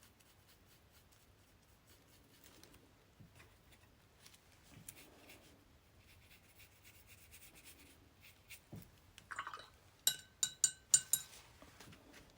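Quiet craft-table sounds: faint brushing and small ticks of tools on paper, then about five sharp, ringing clicks in quick succession near the end.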